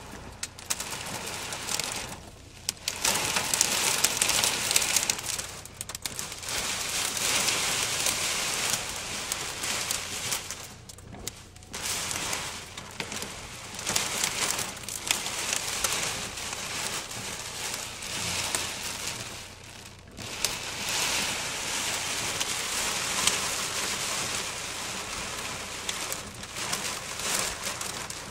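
Heavy rain pelting the car's roof and windshield, heard from inside the car, surging and easing with a few brief lulls.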